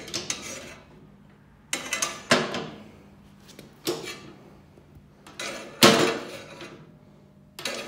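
Sharp metal clanks and knocks, five or so spaced a second or two apart, each ringing briefly, as a homemade sheet-metal discharge chute on a zero-turn mower deck is handled and moved.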